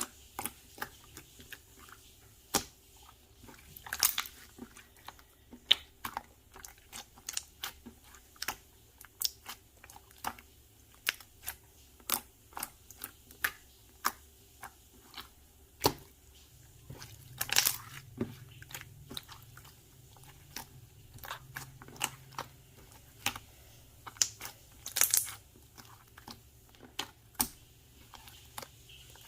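Hands squeezing and stretching slime: irregular sharp sticky clicks and pops, a few each second.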